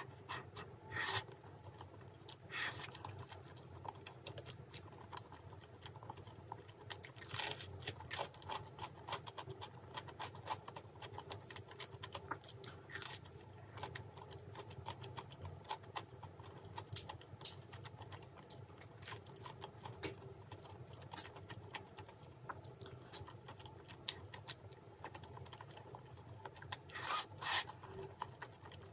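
Close-miked mouth sounds of eating soft, saucy wide pasta noodles: wet chewing and smacking made of many small clicks, with a few louder wet smacks, over a low steady hum.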